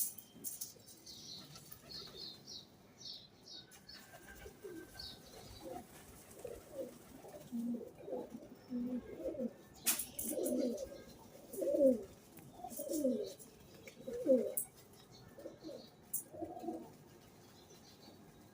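Pigeons cooing: a run of low, falling coos that grow louder about ten seconds in. Faint high chirps of a small bird come in the first few seconds.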